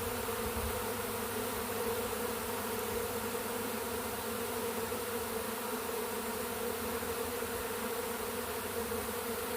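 Loud, steady buzzing drone of a large honey bee swarm in the air, thousands of bees flying around a tree limb where the swarm is clustering after leaving its hive.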